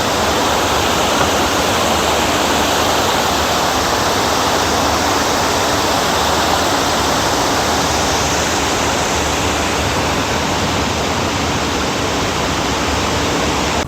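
Water cascading down a garden water wall: a steady, loud rush of falling water.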